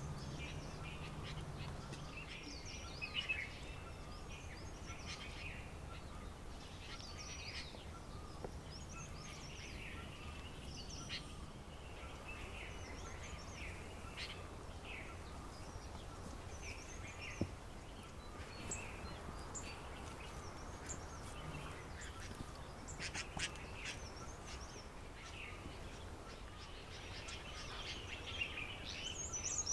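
Several wild birds chirping and calling over one another, short high calls scattered all through, over a steady low background rumble.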